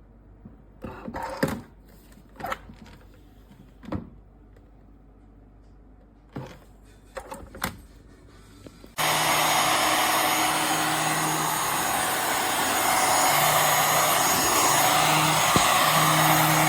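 A few short clicks and knocks of handling, then about halfway through a handheld futon vacuum cleaner switches on abruptly and runs steadily: a loud rush of suction with a low motor hum and a thin high whine.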